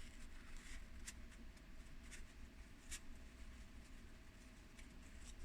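Faint handling of tarot cards: a few soft ticks and rustles over a quiet room hum.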